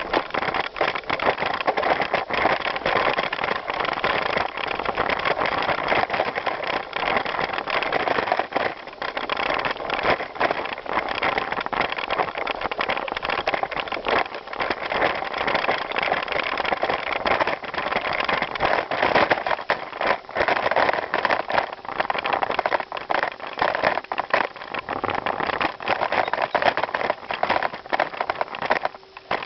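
Bicycle riding over gravel: the tyres crunch and the bike rattles in a continuous dense crackle, which eases briefly near the end.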